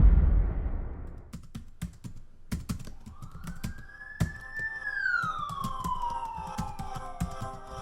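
Edited intro sound effects: a deep boom dying away, then scattered keyboard-like clicks and a tone that rises and then slowly falls, with steady musical tones coming in under it.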